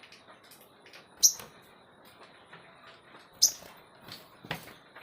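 A songbird giving short, sharp, high chirps: three loud ones, about a second in, a little past three seconds, and near the end, with fainter chips in between.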